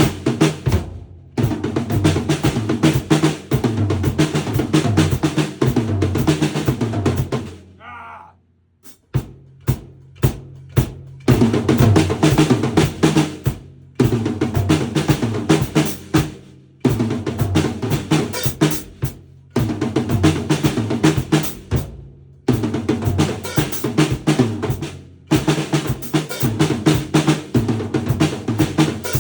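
Drum kit played in busy runs of snare, bass drum and cymbal hits, in phrases of a few seconds with short breaks between them, and a longer lull with only a few scattered hits about eight seconds in.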